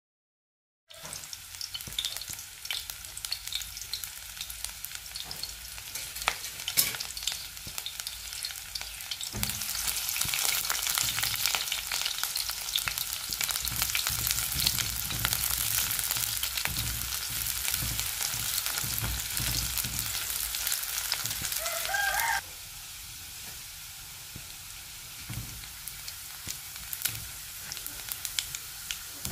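Sliced onions frying in hot oil in a wok, a dense sizzle and crackle with a spatula stirring through them and occasional light taps. The sizzle grows louder about a third of the way in and drops back suddenly about three-quarters through, just after a short rising squeak.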